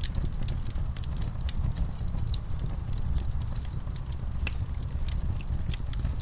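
Fire in a fireplace crackling: frequent sharp, irregular pops over a steady low rumble.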